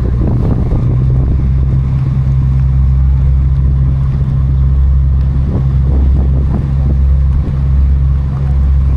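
A cruise boat's engines droning steadily, a low constant hum, with wind buffeting the microphone.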